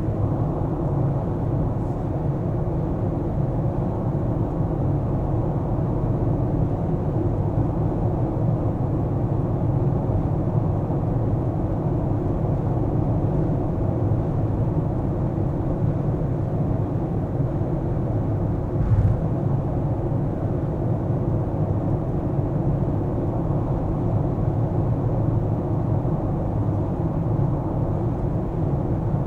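Car driving through city streets, a steady low rumble of road and engine noise, with one brief knock about two-thirds of the way through.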